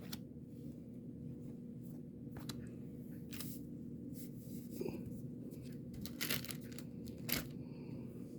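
Handling of trading cards and their wrappers: a few short rustles and tearing noises over a faint steady low hum.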